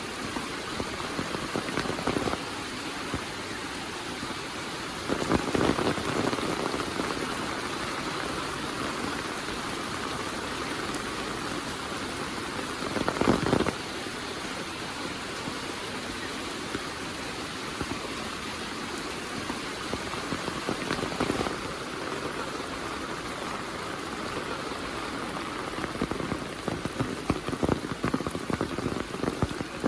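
Heavy monsoon rain falling steadily, with a few brief louder swells and, near the end, an irregular run of louder spatters.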